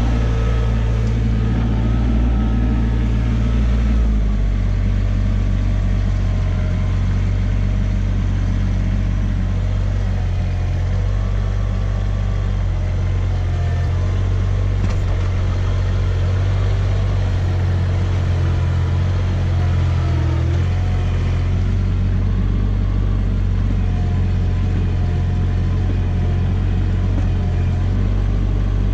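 Kubota compact tractor's diesel engine running steadily, its low note shifting up and down a little now and then.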